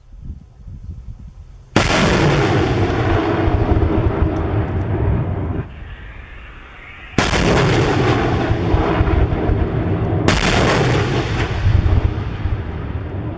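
Three Grad rockets launched one after another from a homemade truck-mounted launcher: each starts with a sudden blast followed by several seconds of the rocket motor's rushing noise. The second launch comes about five and a half seconds after the first and the third about three seconds after that.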